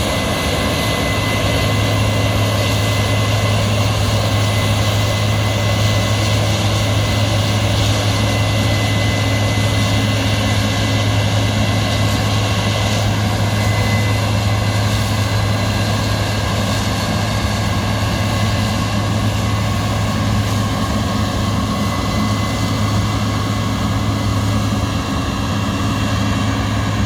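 A large engine running steadily, a constant low hum with no change in speed.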